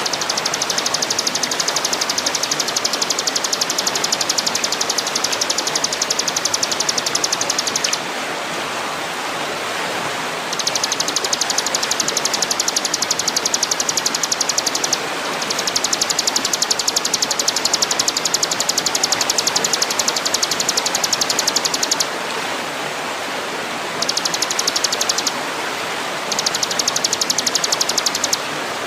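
Masteran training audio: a high, rapidly pulsed buzzing trill comes in long bouts of several seconds with short breaks. It plays over a steady rushing, water-like hiss.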